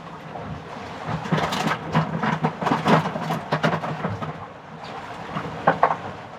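Strong wind buffeting the microphone on a small boat, coming in gusts with rough crackling rushes, loudest in the middle.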